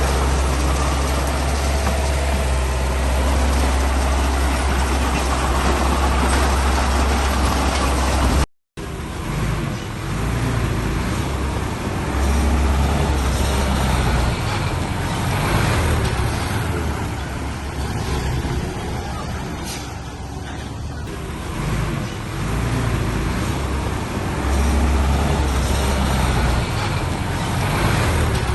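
Heavy diesel construction machinery running under load, a deep engine rumble that swells and eases several times. The sound cuts out completely for a moment about eight and a half seconds in, then resumes.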